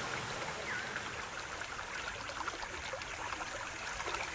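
Steady running-water sound of a creek, a continuous trickling rush.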